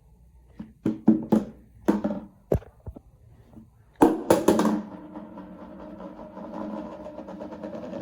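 A robot vacuum cleaner knocking and clattering against stairs, with a loud clatter about four seconds in, followed by a steady pitched hum.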